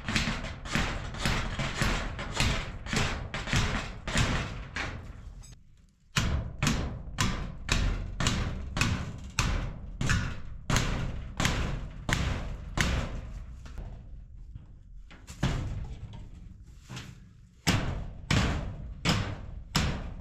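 Hammer blows driving stakes into rocky ground, a steady run of about two strikes a second, with short pauses about six seconds in and again near fifteen seconds.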